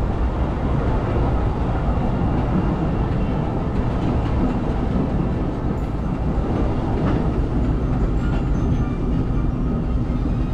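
Disneyland Railroad steam train running steadily on its rails, heard from aboard: a continuous low rumble of wheels and cars with a few faint clicks.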